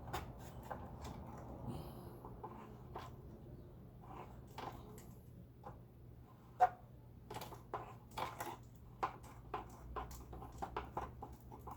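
Irregular small clicks, taps and scrapes of packed dust and debris being dug out of a vacuum cleaner's clogged tube, with one sharper click past the middle, over a steady low hum.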